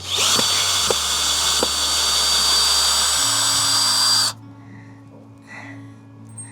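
Cordless drill backing a screw out of wood, running loud with a steady high whine for about four seconds, then stopping.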